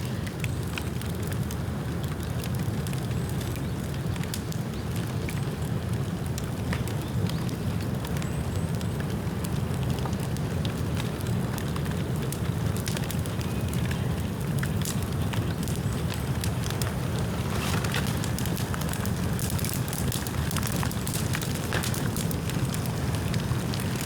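Bamboo bonfire burning: a steady low rush of flames with scattered sharp crackles and pops, which come more often in the second half. The bamboo is still wet from rain.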